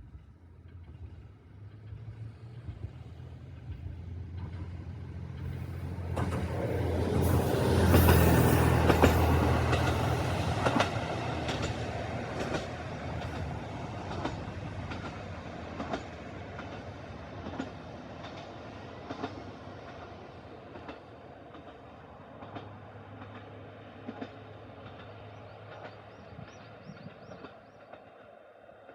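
KiHa 150 diesel railcar passing: its diesel engine hum and the clack of its wheels over rail joints build to a peak about eight seconds in, then fade slowly as it runs away.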